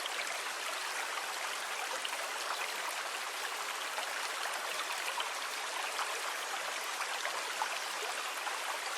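Sea water in a steady, even wash, with a fine fizzing crackle and no pauses or swells.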